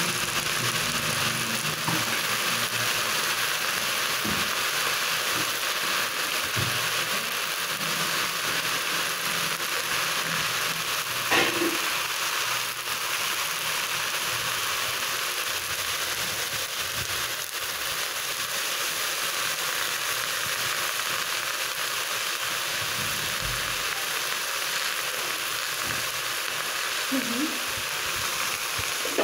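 Leafy greens frying in a pan, a steady sizzling hiss.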